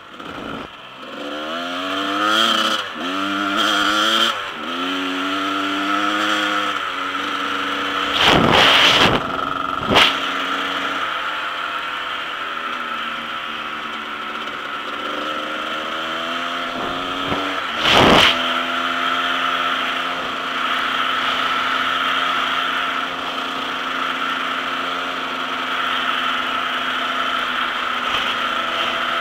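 Dirt bike engine revving up and dropping back again and again, as when accelerating and shifting up through the gears, then running at a steady pace. Three loud short rushes of noise cut across it, about eight, ten and eighteen seconds in.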